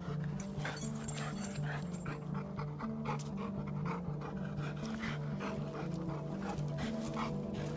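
Boxer dog panting quickly and rhythmically, about three breaths a second, over background music with a steady bass line.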